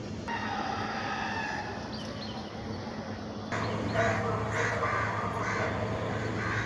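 Birds calling, with a run of short, harsh-sounding repeated calls about twice a second starting about three and a half seconds in, over a low steady hum.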